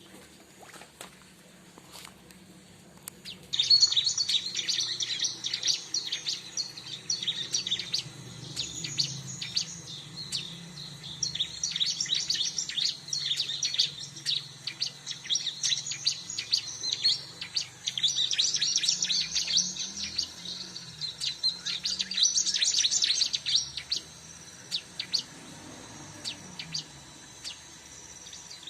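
Bar-winged prinia (ciblek) song: rapid, high-pitched chattering chirps in long runs, beginning a few seconds in and going on with short breaks.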